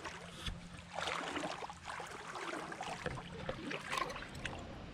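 Shallow creek water splashing and sloshing irregularly, with small clicks and knocks mixed in.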